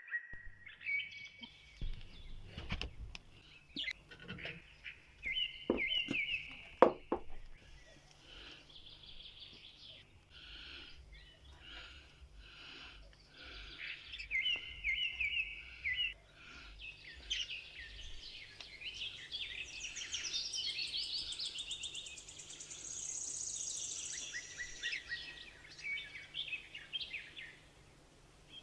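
Budgerigars chirping and warbling in a continuous chatter, with a few sharp knocks in the first seven seconds or so.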